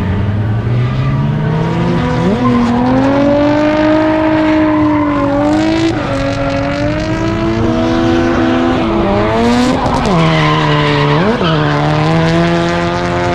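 Drift car engine revving hard, its pitch climbing and then dropping sharply and recovering several times, with tyres squealing and skidding.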